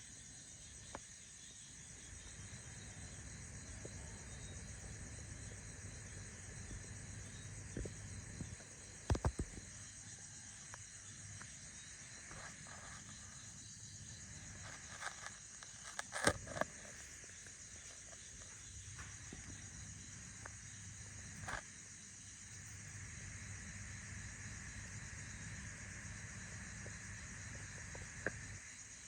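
Faint steady high-pitched hiss, like an insect chorus, broken by a few scattered sharp clicks and crackles, loudest in two clusters about nine and sixteen seconds in.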